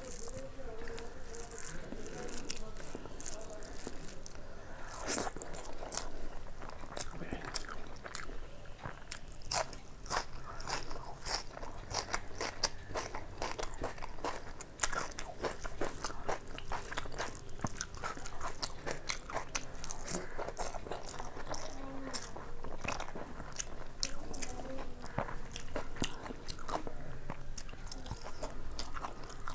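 A person chewing and biting through mouthfuls of fried rice and chicken curry eaten by hand, with many small mouth clicks all the way through.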